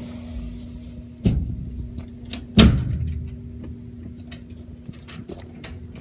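A door being worked: two sharp clanks about a second apart, the second the loudest and ringing briefly, then a run of light clicks and rattles. Underneath, the furnace's blower fans hum steadily.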